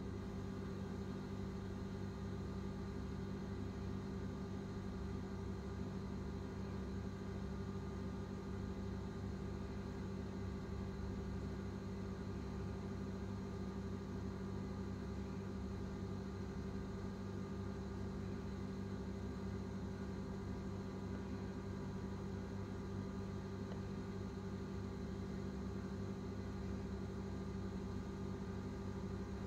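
Steady low electrical hum with a few fixed tones, unchanging throughout.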